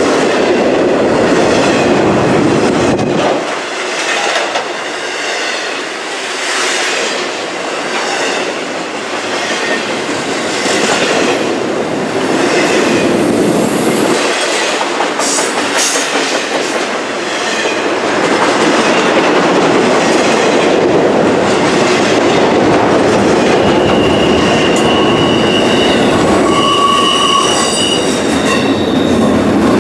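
Intermodal freight train's well cars rolling past close by: steady rumble and clatter of steel wheels on the rails. High, thin wheel squeal comes in over the last few seconds.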